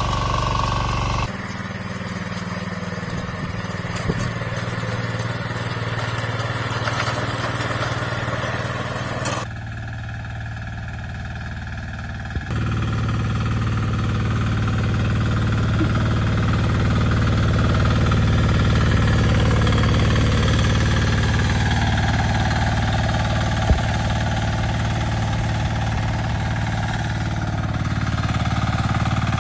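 Walk-behind tractor engines running steadily, heard across several short clips. The sound changes abruptly about a second in, about nine seconds in and about twelve seconds in.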